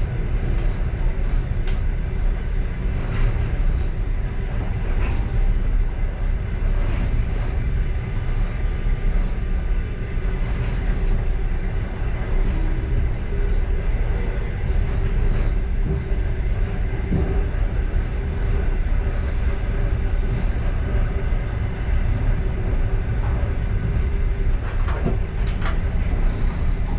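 Passenger train running along the track, heard from inside its last car: a steady low rumble of wheels on rail, with occasional sharp clicks and knocks, a cluster of them near the end.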